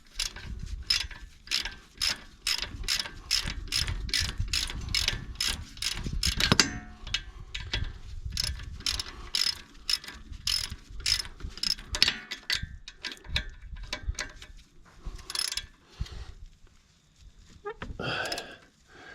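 Hand ratchet wrench clicking in quick regular strokes, about four clicks a second, as the last retaining fastener on the mini excavator blade's wing pins is done up; the clicking breaks off about six seconds in, then resumes for several more seconds.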